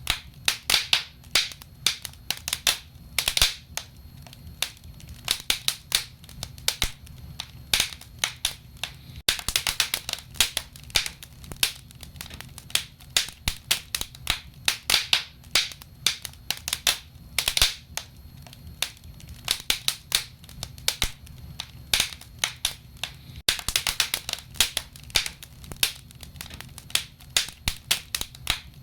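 Fire in a fireplace crackling: a steady run of irregular sharp pops and snaps over a low steady rumble.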